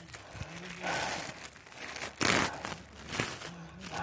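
Yard debris being gathered by hand, crinkling and rustling in irregular bursts, the loudest a little after two seconds in, with a sharp crack just after three seconds.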